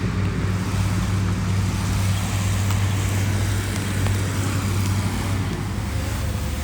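Heavy earthmoving machine's diesel engine running under steady load with a deep, even hum, easing slightly near the end.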